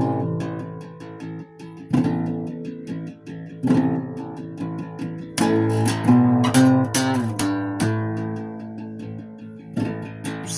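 A solo guitar playing without vocals: chords struck every second or two and left to ring and die away.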